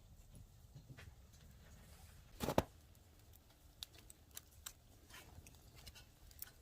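Small wood fire crackling in a nature stove, with irregular faint sharp pops and one louder knock about two and a half seconds in.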